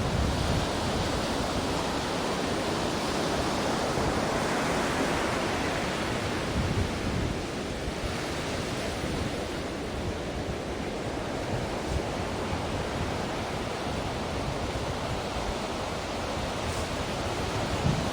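Ocean surf: a continuous wash of waves breaking and running up, swelling a few seconds in and easing off after about eight seconds.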